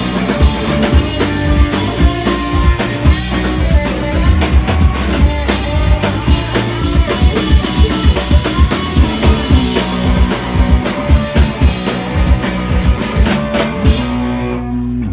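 Live rock band playing an instrumental stretch of a song, with loud driving drums, bass and electric guitar. About a second before the end the drums stop and a held chord rings out.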